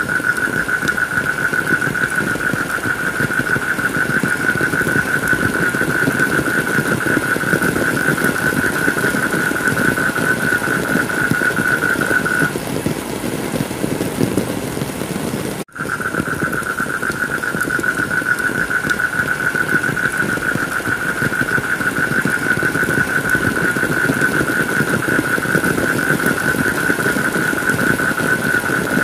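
Heavy rain falling steadily, with a steady high-pitched drone over it. The drone stops a little before halfway, and after a brief cut-out in all the sound just past halfway it comes back.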